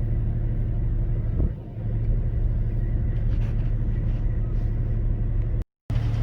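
Off-road vehicle engine running steadily at low revs, a deep drone that dips briefly about a second and a half in. It cuts to silence for a moment near the end.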